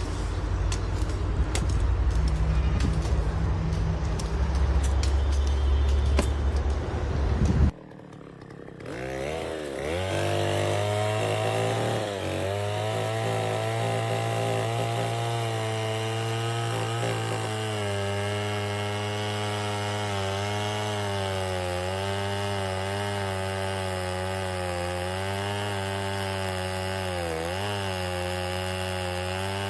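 A loud low rumble with crackling clicks, cut off abruptly about eight seconds in. Then a chainsaw runs at a steady engine note, sawing wood, its pitch dipping briefly a couple of times under load.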